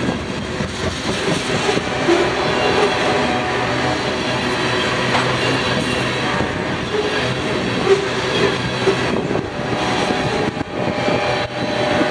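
Freight train of tank cars rolling past at close range: steady rumble and clatter of steel wheels on the rails, with some thin metallic ringing tones.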